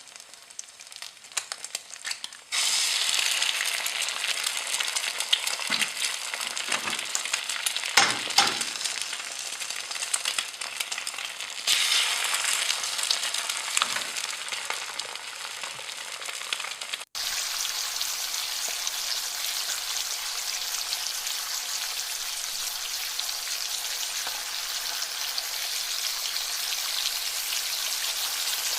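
Mixed vegetables frying in hot oil in a pan. The sizzling starts suddenly and loudly about two and a half seconds in, with a few stirring scrapes, then carries on steadily after a brief break past the middle.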